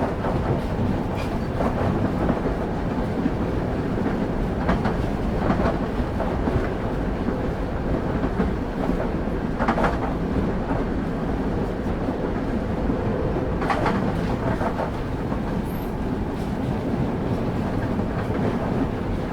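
Railway carriage wheels running along the track at a steady speed, heard from on board: a constant low rumble broken every few seconds by irregular clicks as the wheels cross rail joints.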